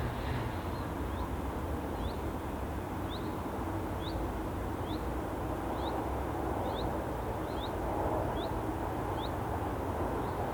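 Steady outdoor background rumble, with a short, high, falling chirp repeating about once a second.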